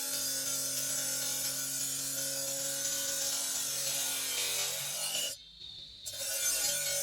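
Power tool grinding and abrading marble: a steady, hissy grinding with a low motor hum. It breaks off briefly about five seconds in, then starts again.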